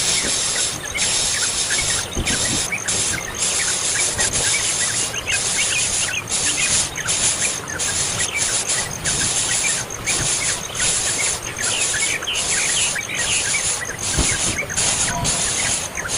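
Birds chirping in many short, quick notes over a loud, steady high hiss that drops out for a moment every half second or so.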